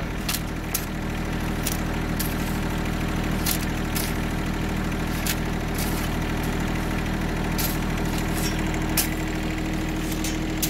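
A vehicle engine running steadily at a low, even speed, with scattered short sharp clicks over it.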